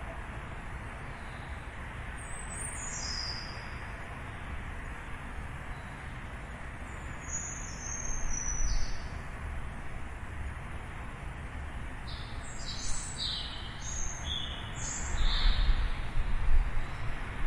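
Birds chirping in short high calls: a falling call about three seconds in, a few more around eight seconds, and a busy cluster of short calls near the end. Under them runs a steady low rumble of outdoor background noise that swells twice.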